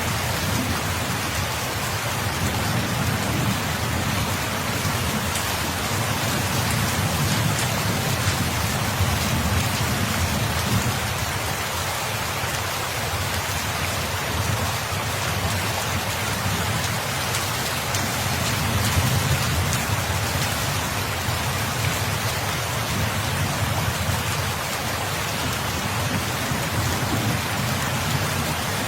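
Steady rain falling, with a low rumble underneath that swells and fades a few times.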